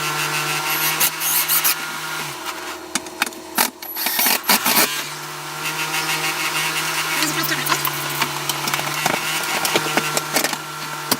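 Battery-powered reciprocating saw running and cutting into wood paneling, with cracking and knocking from the material. The motor stops about two seconds in and starts again near the five-second mark.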